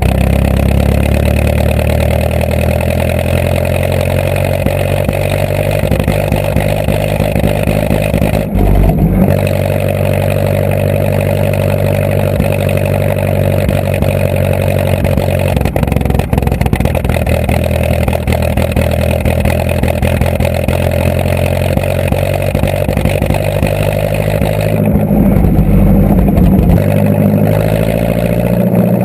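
A vehicle engine running steadily under way, with a brief change in engine note about nine seconds in and again around 25 seconds in.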